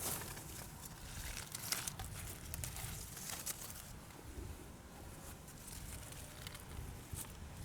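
Irregular rustling and crackling, with scattered small clicks over a low rumble.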